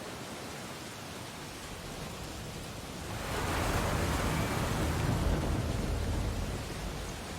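Ocean waves on a beach: a steady wash of surf, with a wave breaking about three seconds in, its rush lasting a few seconds before easing back.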